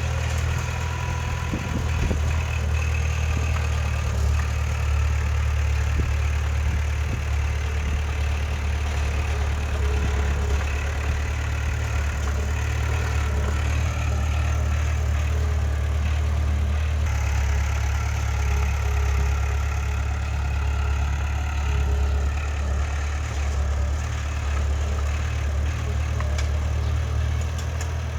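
Heavy diesel earthmoving machinery engine running steadily at a low, even hum.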